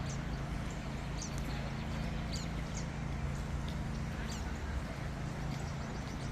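Outdoor ambience: short, high bird chirps scattered over a steady low hum.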